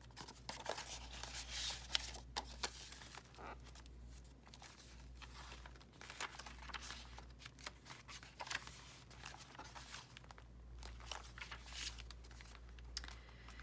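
Paper rustling and crinkling in short, irregular bursts as a junk journal's paper pages, envelope and card ephemera are handled and turned.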